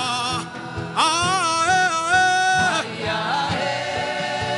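Worship music: a voice holding long sung notes with a wavering pitch, one near the start and a longer one about a second in, over sustained backing chords and a steady beat.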